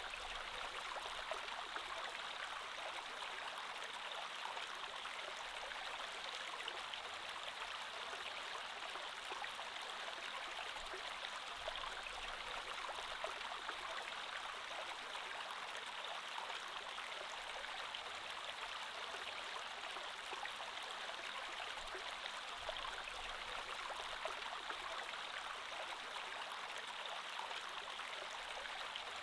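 Creek water flowing over stones, a steady burble with fine splashes and trickles.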